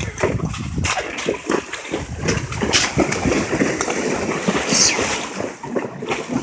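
Water splashing and sloshing in uneven bursts, with a brief sharper splash near the end.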